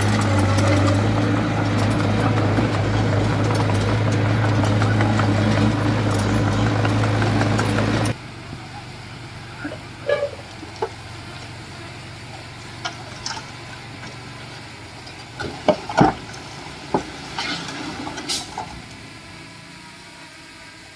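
A heavy diesel engine on earthmoving machinery runs steadily, then cuts off abruptly about eight seconds in. After that the background is quieter, with scattered knocks and clanks; the loudest comes about sixteen seconds in.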